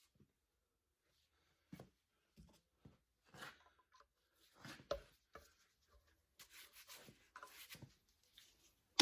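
Faint, scattered clinks and knocks of hand tools and metal parts on a diesel engine block, the loudest about five seconds in, followed by some light scraping as a stuck front cover is worked loose.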